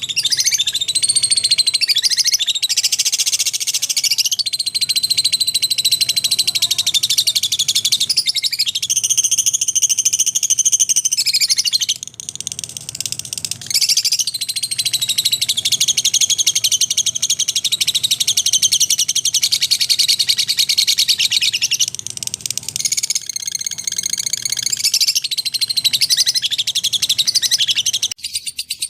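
Lovebirds chattering, with a dense run of fast, high chirps that barely pauses, briefly quieter about twelve seconds in.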